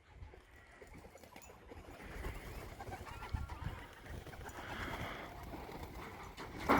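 Racing pigeons cooing at the loft over a low rumble, with a brief louder sound just before the end.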